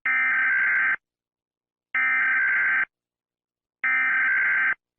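Emergency Alert System SAME header: three bursts of digital data tones, each just under a second long with about a second between them, marking the start of an emergency alert.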